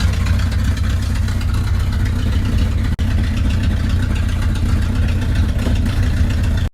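1981 Chevy K10 pickup's engine running steadily with a deep, even rumble.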